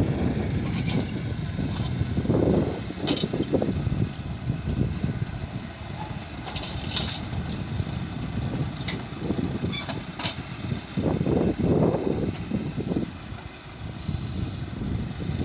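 Tractor engine running with a steady low rumble that swells in loudness a few times, with several sharp clicks scattered through it.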